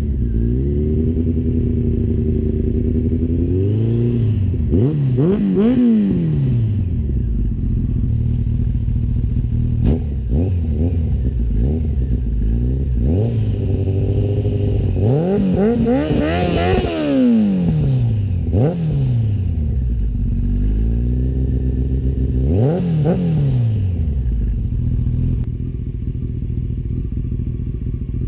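Honda CBR1100XX inline-four engine running through a new exhaust, held at a steady pitch for long stretches and revving up and dropping back several times, with sharper rises and falls about four, six, sixteen to eighteen and twenty-three seconds in.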